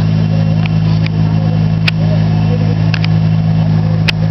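Orchard tractor's engine running at a steady speed, a loud even hum, with a few short sharp clicks or knocks scattered through it.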